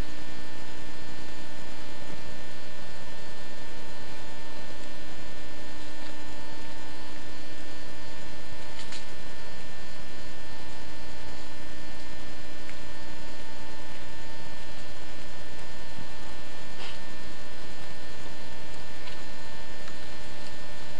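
Steady electrical hum with many overtones, unchanging throughout, with a few faint ticks.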